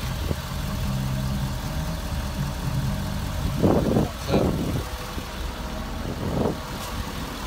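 Ford F-350 Super Duty pickup's engine idling steadily, with three short louder rushes of noise about three and a half, four and a half and six seconds in.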